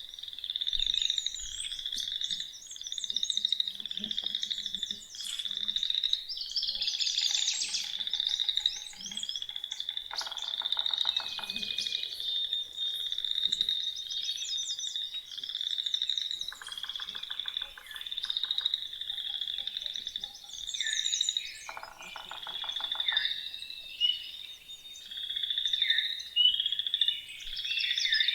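A chorus of frogs calling in a string of short trilled calls, about one a second, with a few lower pulsing trills now and then. Songbirds sing high above them.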